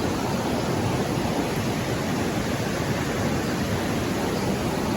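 Steady, even rushing noise with no distinct events, heaviest in the low end.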